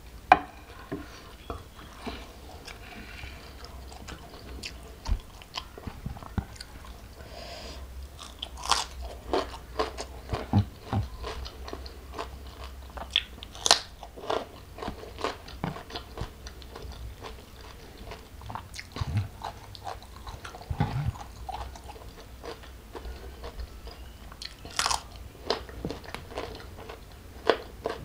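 Close-miked chewing with irregular crisp crunches and smacks: a person eating shell-on prawns, rice and raw vegetables with her fingers. A sharp knock comes at the very start as a glass mug is set down.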